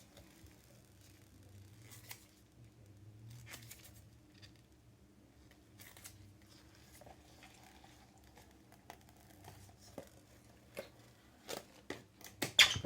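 Scattered clicks and crackles of a silicone mold being peeled off a cured resin bowl, growing into a louder cluster of sharp crackles near the end.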